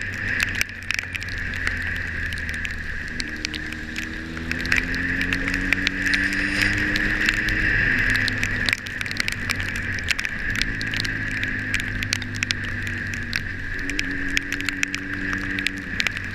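Motorcycle engine running under way, its pitch climbing slowly, dropping about eight seconds in and climbing again, as with gear changes. Steady wind and road hiss and frequent small ticks, such as raindrops hitting the camera, run throughout.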